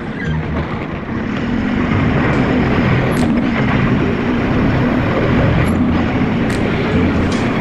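A truck on the move: steady engine and road noise, getting louder between one and two seconds in.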